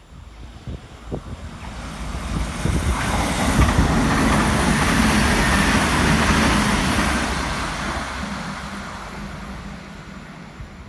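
Irish Rail ICR diesel multiple unit passing through the station: its engine and wheel-on-rail noise build to a loud peak a few seconds in, then fade steadily as it runs off.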